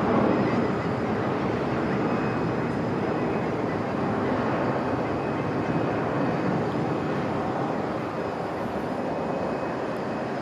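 Boeing 757-256's Rolls-Royce RB211 jet engines at takeoff power, a steady broad roar slowly fading as the airliner climbs away.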